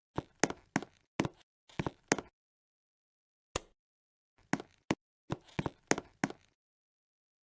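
Sharp knocks or clicks in irregular quick groups, two or three strikes at a time, with a single strike about three and a half seconds in.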